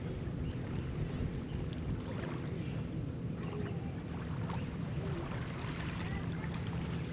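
Steady low hum of a boat engine on the water, with wind and lapping water underneath.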